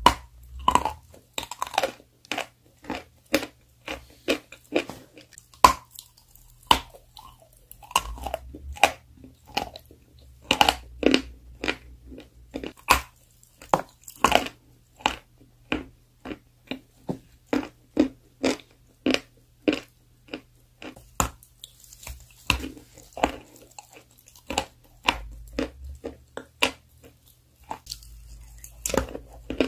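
Close-up crunching and chewing of a dry grey chalky block: sharp separate crunches, about one to two a second.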